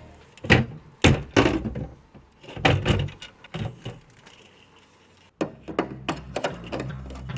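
A run of sharp knocks and thuds, several close together over the first three seconds or so, then background music comes back in about five seconds in.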